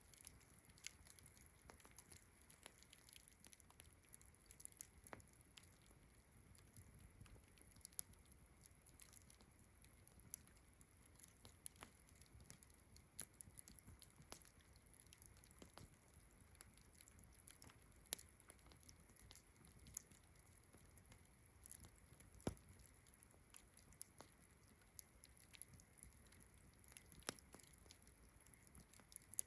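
Campfire crackling with irregular sharp pops, several a second, over a steady high trilling of distant crickets and frogs.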